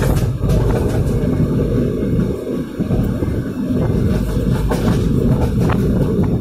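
Passenger express train running on the rails, a steady loud low rumble heard at an open coach door, with a few faint clicks about five and six seconds in.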